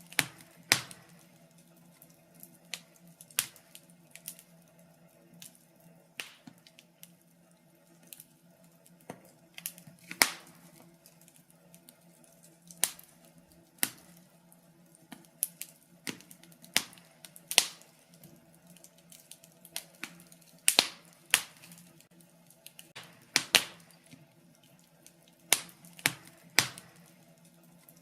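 Fire in a fireplace crackling, with irregular sharp pops and snaps, some much louder than others, over a faint steady hum.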